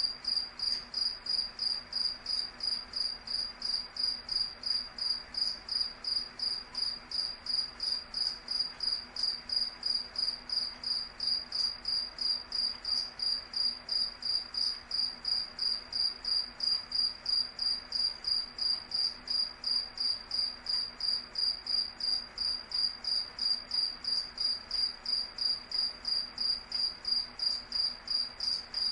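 Cricket chirping steadily in an even rhythm, about two to three high-pitched chirps a second, over a faint background hiss.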